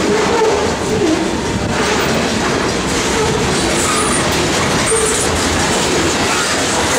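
Freight train of grain cars rolling steadily past, the wheels clacking over the rail joints, with thin wheel squeals coming and going.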